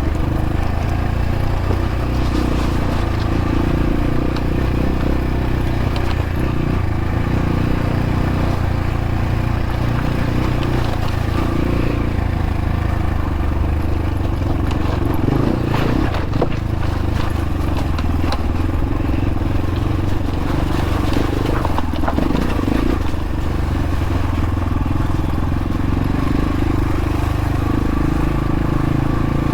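X-Pro Templar X dirt bike engine running steadily while riding along at an even pace. A few knocks from the bike over rough ground come through near the middle.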